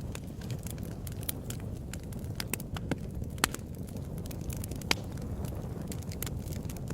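Wood fire in a fireplace crackling, with irregular sharp pops over a steady low rumble of burning; two louder pops about three and a half and five seconds in.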